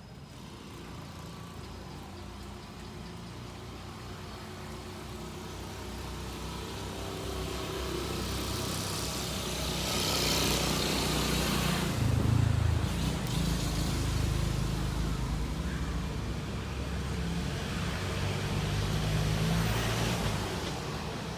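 Road traffic: motor vehicles passing, an engine drone with tyre noise that builds to its loudest about halfway through and swells again near the end.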